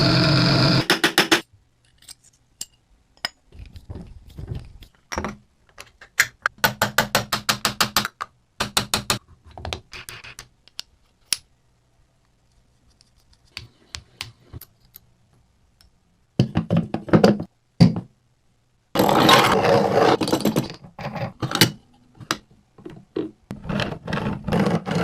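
Coffee grinder: its motor runs and cuts off about a second in. Then come repeated runs of rapid clicking, knocking and scraping, with a short dense rattling stretch a little past two-thirds of the way through.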